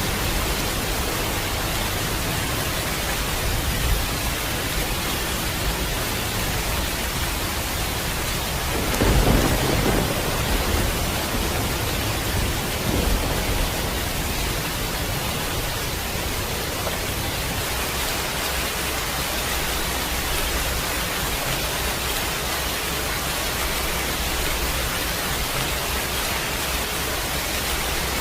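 Heavy rain falling in a steady hiss, with a low rumble of thunder swelling up about nine seconds in and smaller rumbles around it.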